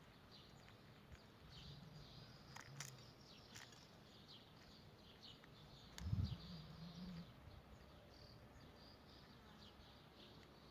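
Faint, scattered short bird chirps over a quiet background, with a brief low thump about six seconds in.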